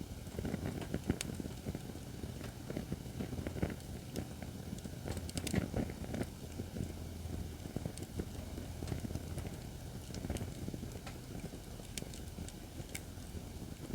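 Acacia firewood burning in a fire-pit stand, crackling with irregular sharp pops and snaps over a low steady rumble.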